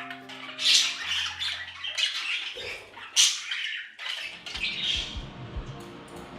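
Pet budgies chattering and squawking, with several loud, sharp calls, over background music whose low beat comes in about halfway through.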